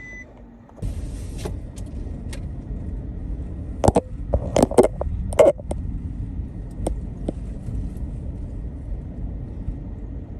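A car driving, heard from inside the cabin: a steady low rumble of road and engine noise that starts suddenly about a second in. A cluster of sharp knocks and rattles, the loudest sounds here, comes about four to five and a half seconds in.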